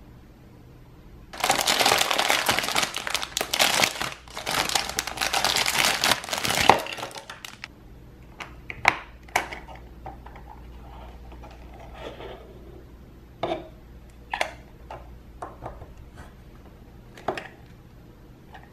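Clear plastic bag crinkling loudly for about six seconds as it is handled open, then a string of scattered sharp clicks and taps as hard blue plastic toy toilet parts are fitted and handled.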